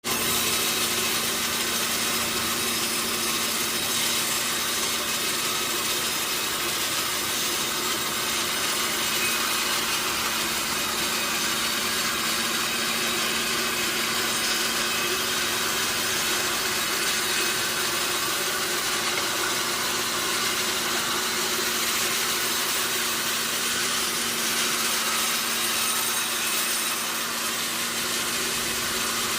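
Sawmill saw cutting through a log: a continuous, even hiss with a steady low hum from the machine underneath.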